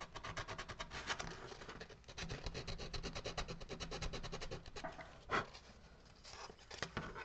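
Hand carving of a wooden rifle model: a blade scraping and shaving the wood in quick, short strokes, about nine a second. After about five seconds the strokes slow to a few separate scrapes.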